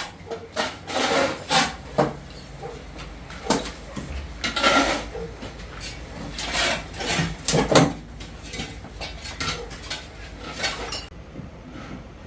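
Irregular knocks and clatter of hard objects being handled, a dozen or so strikes spaced unevenly, over a low steady hum.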